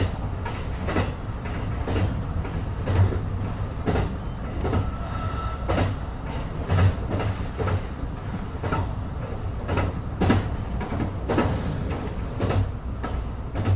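Electric train on the Maizuru Line running along jointed track: a steady low rumble broken by sharp rail-joint clacks about once a second. A brief thin whine sounds about five seconds in.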